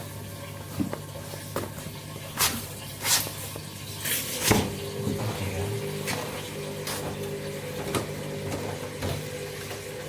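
Candy washing machine running: a steady low hum, with a few sharp knocks and swishes between two and five seconds in, after which a steady higher tone joins the hum.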